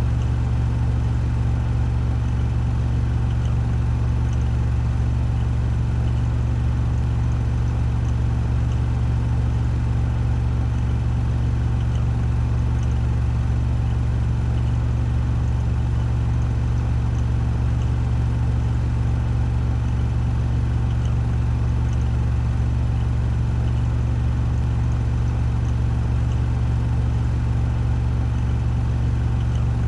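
Washing machine on its 1400 rpm spin cycle: the drum spinning at full speed with a steady low hum and whir.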